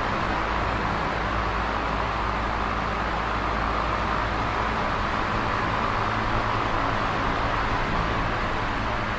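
Electric fan running with a steady, even whoosh of air and a low motor hum underneath.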